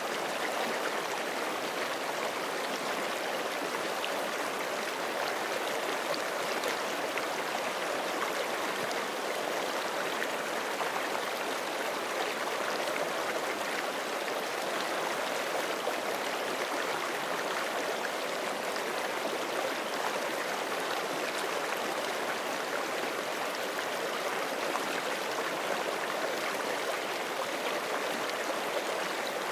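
Forest creek flowing steadily over rocks, an even rushing and gurgling of water.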